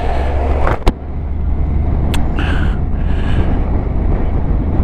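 Motorcycle underway: steady low engine rumble mixed with wind noise, with a sharp click a little under a second in and another about two seconds in.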